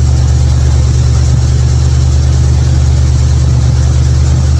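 Chevy hot rod's engine idling steadily on a freshly installed set of spark plugs, after the old plugs had fouled wet with fuel and caused a miss.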